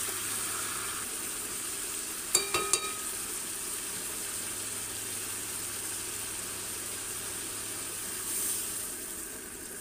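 Duck meat curry sizzling steadily in hot oil in a kadai after long browning, the oil having separated from the masala. About two and a half seconds in, a metal spatula strikes the pan two or three times with short ringing clinks; near the end, warm water poured into the pan brings a brief swell of hissing.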